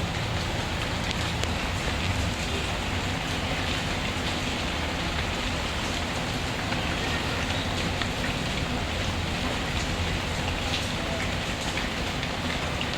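Steady rain falling, with scattered small crackles and pops from a wood fire.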